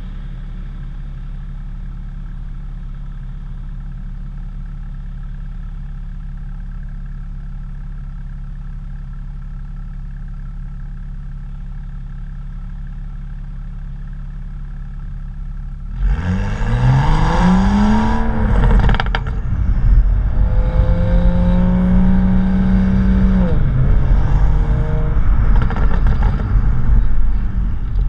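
BMW M235i's turbocharged straight-six idling steadily, then revved repeatedly from a little past halfway, the pitch climbing and falling, with one rev held for a few seconds. A tinny rattling vibration from the exhaust comes from the BMS exhaust tips, whose inner clamps had broken up and were rattling loose.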